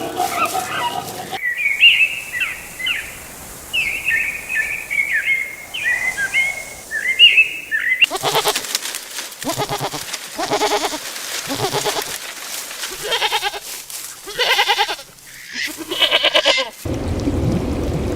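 Small birds chirping for several seconds, then repeated bleating calls from farm animals, each a wavering cry of about a second. Near the end the calls give way to a steady rush of pouring water.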